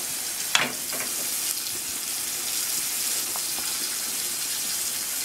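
Floured meat frying in hot oil in a skillet, a steady sizzle. A single sharp clack about half a second in.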